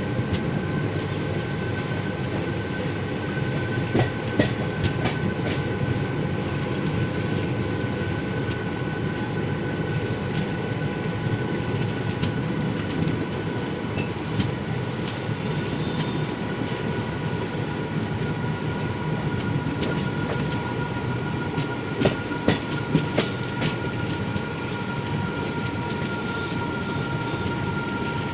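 Garib Rath Express wheels running over a diamond crossing: a steady low rumble with scattered clacks as the wheels hit the rail gaps, a few louder knocks about three-quarters of the way through, and a thin steady wheel squeal over it all.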